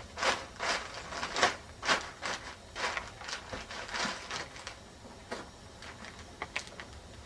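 Builder's plastic film and tape being handled and stuck down at a doorway: a run of short rasping rustles, about two a second, that thin out to faint scattered clicks about halfway through.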